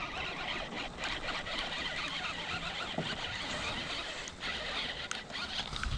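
Steady hiss of rain, with a few faint, scattered ticks.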